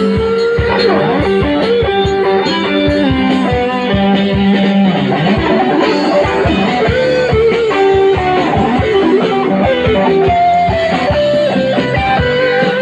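Rock-style band music without vocals: a guitar playing a melodic line with bent notes over bass and a steady beat.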